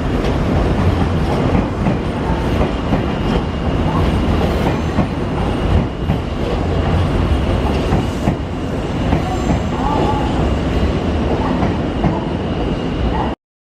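Nankai electric train running slowly along the platform at a terminal station, with wheel and rail rumble and a thin steady high whine. The sound cuts off abruptly near the end.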